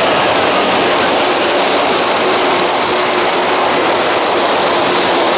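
An electric commuter train running past close by. Its wheels on the rails give a loud, steady rush of noise.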